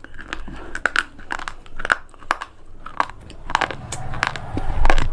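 Brittle slate pieces crunching and cracking as they are broken, a close-up string of sharp, irregular snaps about two a second.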